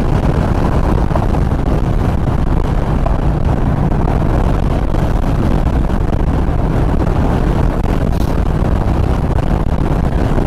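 Steady wind rush on the helmet microphone over the drone of a Yamaha XV950R's V-twin at highway cruising speed. The rider blames the wind noise on air getting in under the helmet's chin even with the visor locked.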